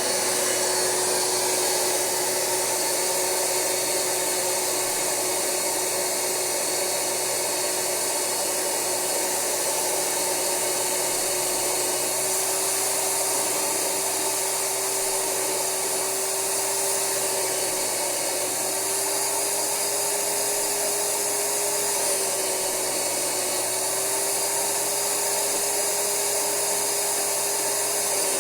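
Rug Doctor carpet cleaner running as it extracts upholstery through its Universal Hand Tool: a steady motor hum over a strong rushing hiss, the hum's pitch shifting slightly a few times as the load changes.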